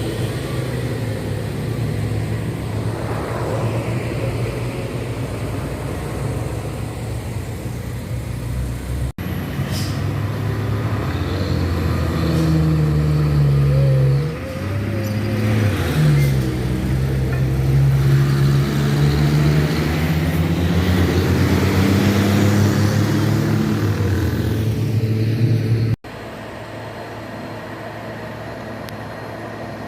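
Heavy truck diesel engines working up a steep hill, heard in three shots joined by abrupt cuts. In the middle shot the engine pulls with a rising pitch, drops sharply as it shifts gear, then climbs again under load.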